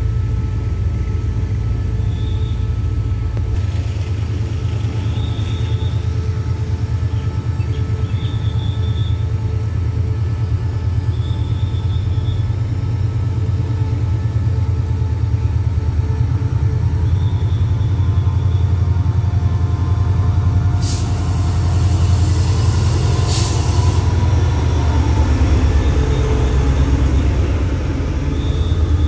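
Diesel locomotive engine running with a steady low rumble as it hauls a passenger train slowly into the station and past. About three quarters of the way through, a short sharp hiss of air, typical of the train's air brakes.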